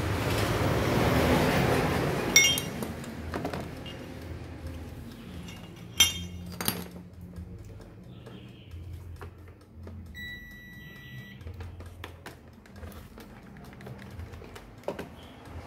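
A passing vehicle's rumble fades out in the first two seconds, followed by a few sharp metallic clinks and taps of tools on a small appliance. About ten seconds in, a single steady electronic beep sounds for about a second, among light clicks.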